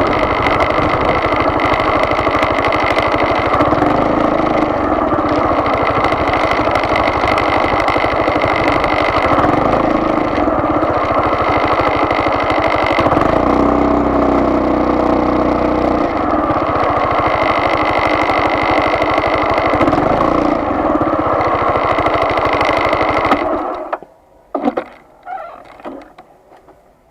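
Car engine and road noise while driving, steady and loud, with a brief change in the engine note about halfway through; near the end it cuts out abruptly, leaving a few faint clicks and knocks.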